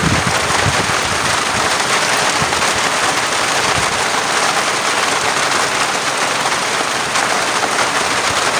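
Steady rain falling, a dense, even hiss of countless drops with no let-up.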